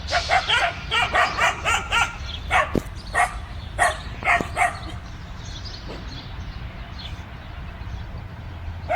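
Dogs barking in a quick run of sharp barks, about two a second, dying away after about five seconds to a few faint barks.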